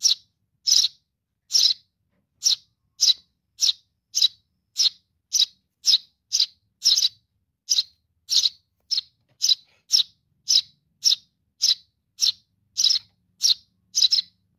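Eurasian tree sparrow chick calling for its parent, a begging call: short, high chirps repeated steadily about every half second to two-thirds of a second.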